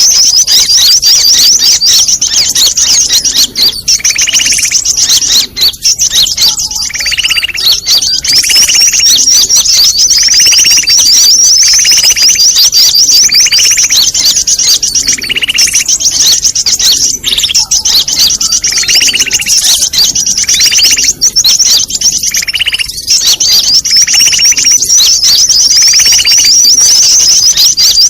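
Busy chorus of small birds' chattering calls, a "pikat ribut" lure recording used to attract birds for trapping. A continuous rapid, high chatter runs throughout, with a lower call repeating about every second and a half.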